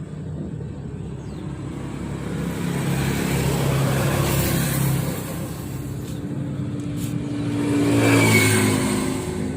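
A motor vehicle engine running, getting louder around four seconds in and again, most strongly, around eight seconds in.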